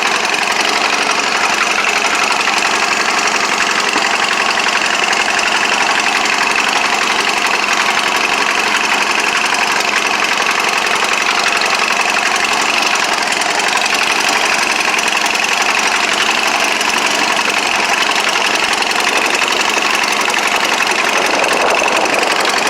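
Allis-Chalmers B tractor's four-cylinder engine running steadily, with no change in speed.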